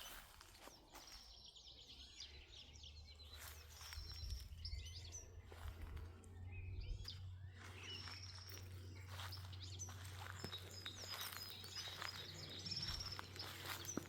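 Small songbirds chirping and trilling in short high calls, many overlapping, fairly faint, over a low steady hum.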